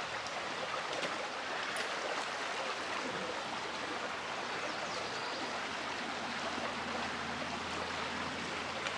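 River water flowing steadily, an even rushing.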